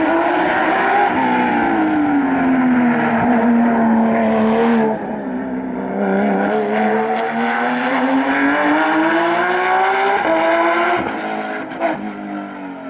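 Rally car engine driven hard: revs held high, a sudden lift about five seconds in, then the pitch climbs steadily for several seconds before dropping again a little after the tenth second, as the car goes quieter near the end.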